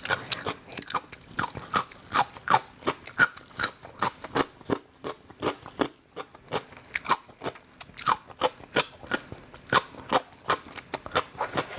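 Close-up crunchy chewing and biting of crisp gongcai (dried celtuce stem): many irregular crisp crunches, several a second.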